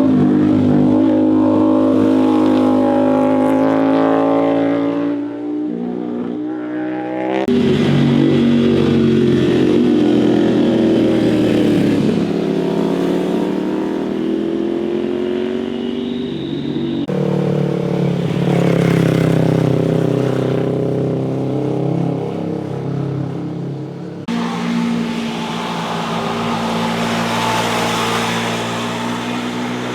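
Motorcycle engines revving and accelerating past, their pitch rising and falling with throttle and gear changes. The sound switches abruptly to a different bike about seven, seventeen and twenty-four seconds in.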